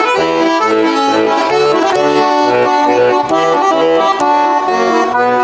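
Bayan (Russian button accordion) playing a lively instrumental introduction to a folk-style song, with low bass notes alternating with chords at a steady, bouncy pace under the melody.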